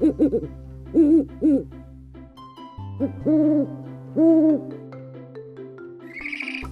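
Owl hooting: a series of hoots, a few short ones at the start and then longer hoots held about half a second each.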